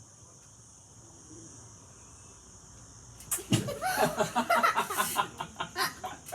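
After about three seconds of low background, a burst of a child's laughter mixed with quick sharp smacking sounds lasting about three seconds, typical of kisses being given.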